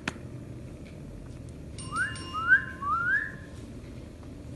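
Three short rising whistles in quick succession about two seconds in, preceded by a single click at the very start.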